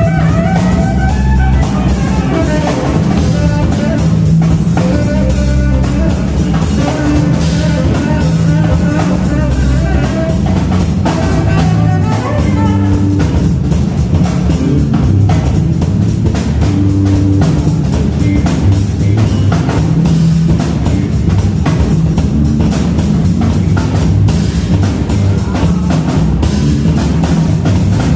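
Band playing music with a drum kit, bass and guitar, a steady rock-style beat throughout.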